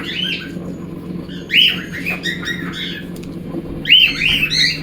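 Cockatiels chirping in three short bursts of rising-and-falling calls, over a steady low hum.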